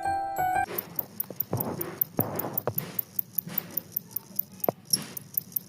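Two-spotted field cricket (jangkrik kalung) chirping in quick, evenly repeated short pulses, several a second, with scratchy rustling and sharp clicks around it. A jingly music intro ends a little under a second in.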